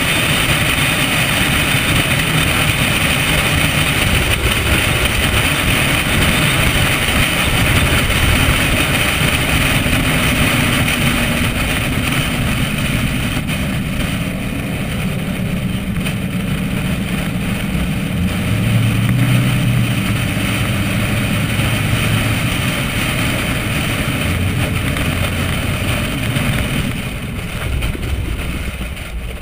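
Corvette V8 engine running at parade-lap pace under a steady rush of wind and road noise, the engine note shifting in pitch now and then as the car speeds up and eases off.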